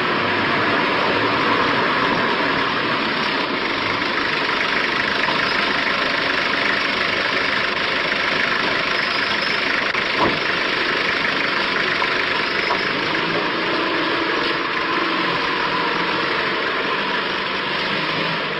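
A car's engine and road noise running steadily, as from a taxi on the move through city traffic, with a brief click about ten seconds in.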